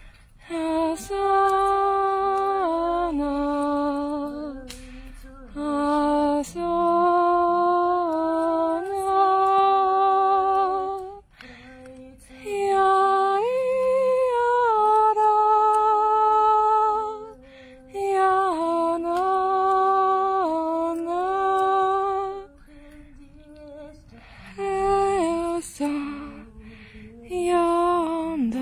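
A woman humming a slow, wordless melody unaccompanied, in long held notes that step up and down. The phrases last a few seconds each, with short breaks between them.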